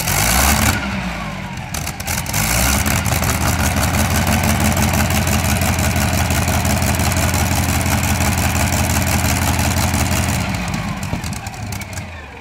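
Tractor-pulling engine revved up and held at high, steady revs for about eight seconds, then dropping back as the throttle is released near the end.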